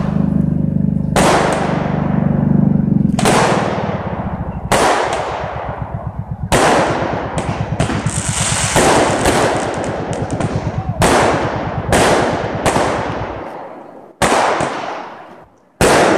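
Aerial fireworks going off: a run of about a dozen loud bangs, roughly one a second, each trailing off in a long echo.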